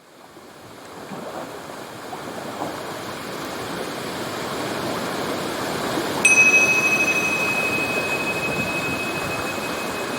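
Steady rushing of a waterfall, fading in over the first few seconds. About six seconds in, a single bell-like chime is struck once and rings on as one clear high tone over the water.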